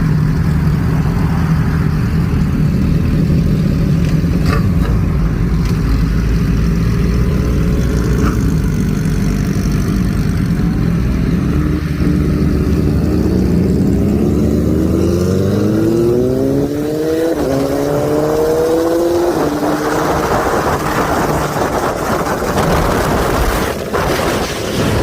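Motorcycle engine running low and steady, then revving up with a rising pitch, dipping briefly about seventeen seconds in as if shifting gear. A steady rushing noise follows near the end.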